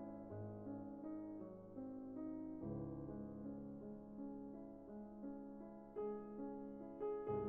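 Soft background piano music: a gentle melody of sustained notes over held low chords.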